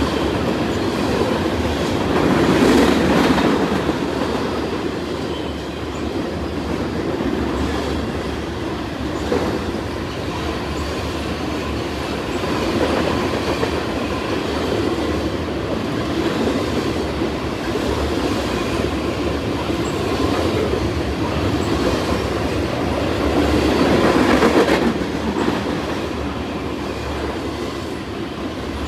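Freight train cars rolling past, steel wheels running steadily on the rails, with the sound swelling louder about three seconds in and again near the end.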